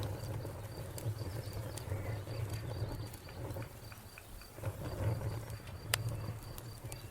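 Wood fire crackling with scattered sharp pops, one louder pop about six seconds in, over a low steady rumble. A cricket chirps steadily in the background, about four chirps a second.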